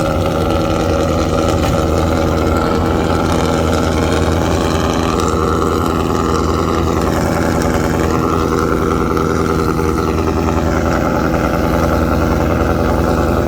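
A car engine idling loudly and steadily, its pitch holding nearly level throughout.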